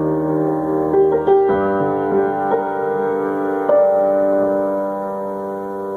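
A keyboard playing slow, held chords, with a few new notes coming in during the first four seconds and the sound easing off toward the end. It is an instrumental break between sung lines of a slow singer-songwriter song.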